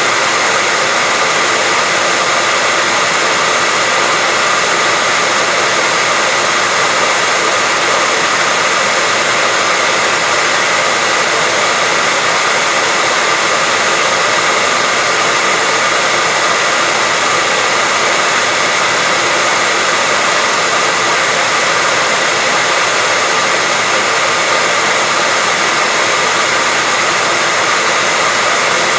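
Hair dryer blowing continuously at a steady pitch and level, a loud even rush of air with a faint steady motor whine, played as a sleep sound for a baby.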